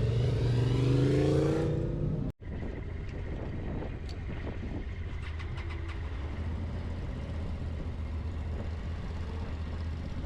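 Motorcycle engine running with its pitch rising over the first two seconds. After an abrupt cut, a quieter steady low engine rumble continues, with a few light clicks.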